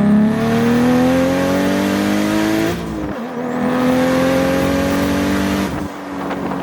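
Turbocharged BMW M52 straight-six (Precision 6266 turbo) in a 1999 BMW 323i at full throttle on a dyno. The revs climb steadily through third gear, drop sharply at a shift about three seconds in, then climb again through fourth until the throttle closes near the end.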